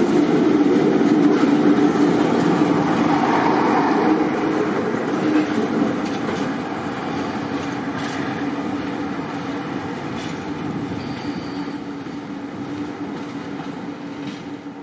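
A diesel locomotive at work with its train running along the track, its engine note steady over the rumble of the wheels, fading gradually as it moves away.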